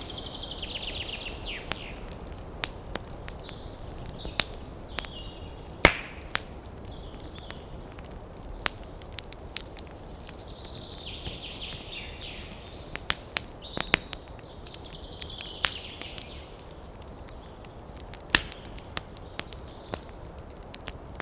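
Campfire crackling, with irregular sharp pops and snaps over a steady hiss. Bursts of rapid high bird chirping come and go behind it, near the start and again in the middle.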